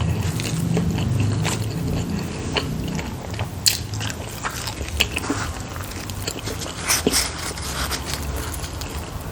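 Close-miked biting and chewing of handmade filled dumplings: wet, irregular mouth sounds with a few sharper crisp snaps, the loudest about three and a half seconds in and around seven seconds in.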